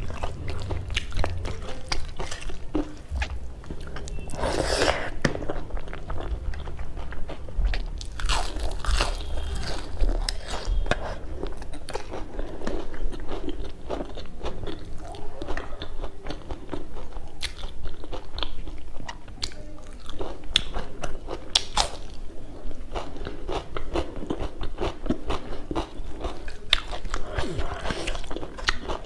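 A person chewing and crunching food, with continual small crackly bites: crisp fried chive pakoras eaten with rice by hand.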